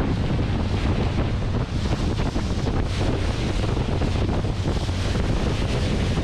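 Wind buffeting the microphone on a moving tour boat, over the boat's steady engine drone and the rush of river water.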